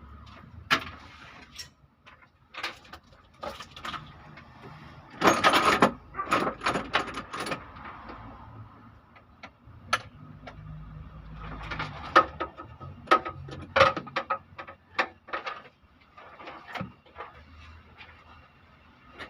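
Irregular clanking and clicking of metal tools and engine parts being handled during an engine teardown, with a dense run of knocks about five seconds in and another around twelve to fifteen seconds.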